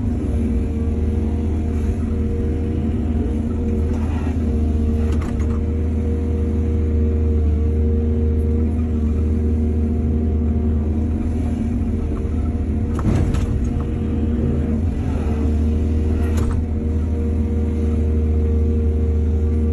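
Excavator's diesel engine running steadily, with a few short metallic clanks and scrapes about four to five seconds in, around thirteen seconds and near sixteen seconds, from the machine's bucket and linkage working.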